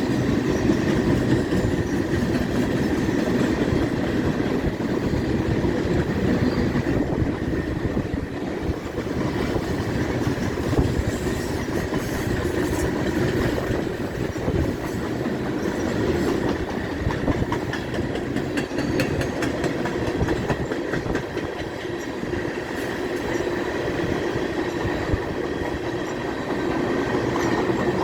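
Freight cars of a long CPKC train rolling on the rails with a steady rumble and rapid clicking of steel wheels, the clicks growing denser about a third of the way through.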